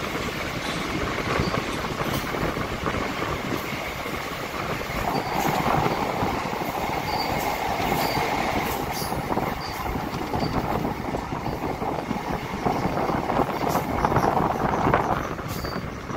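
Indian Railways passenger train running at speed, heard from beside the coach: steady wheel-on-rail rumble and rushing noise, with scattered sharp clicks from the track. The train passes through a tunnel and comes out into the open about halfway through.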